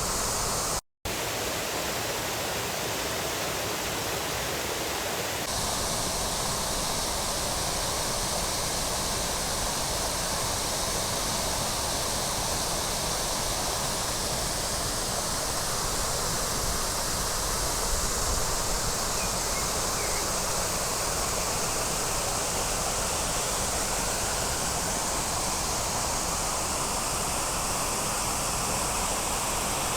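Waterfall rushing: a steady, even roar of falling water, broken by a split-second dropout about a second in.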